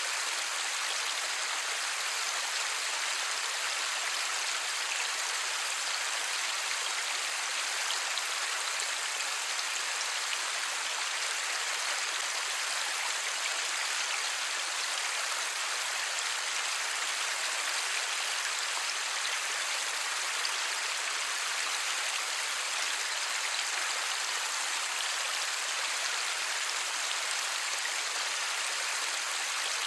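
Light rain falling steadily, an even hiss of many drops with no thunder.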